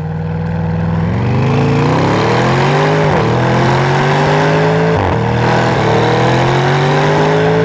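Audi RS6 Avant accelerating hard through a Valvetronic titanium cat-back exhaust, the engine note rising in pitch, dropping at two upshifts about three and five seconds in, then climbing again.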